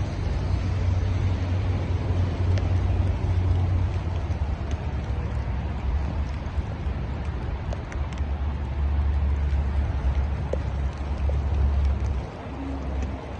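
A vehicle's steady low rumble with a hiss of road noise, easing briefly about twelve seconds in.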